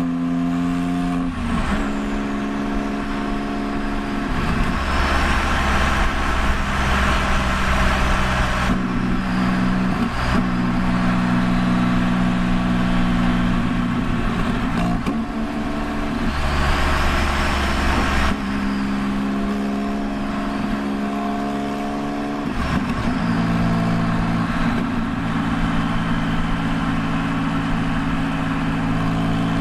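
Straight-piped 2001 Porsche 996 911 Turbo's twin-turbo 3.6-litre flat-six exhaust while driving. It holds a steady pitch, and the note and load shift every few seconds.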